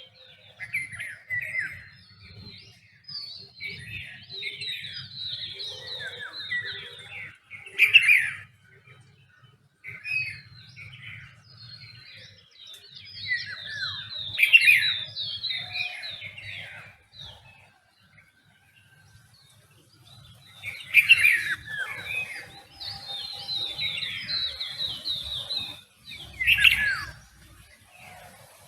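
Several songbirds chirping and singing in overlapping bouts of quick, warbling phrases, with a quieter lull past the middle, over a faint low hum.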